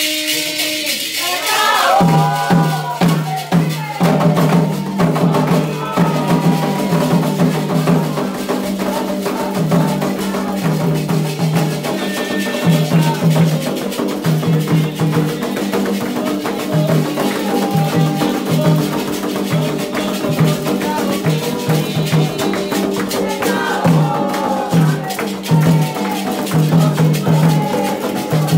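Candomblé ceremonial music: a rattle shaking alone at first, then drums come in about two seconds in with a steady repeating beat, and voices sing over them.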